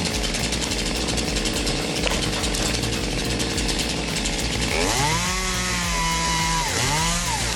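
Two-stroke chainsaw running with a dense, rapid buzz. About five seconds in it is revved up and held high, eased off, then revved up and down once more near the end.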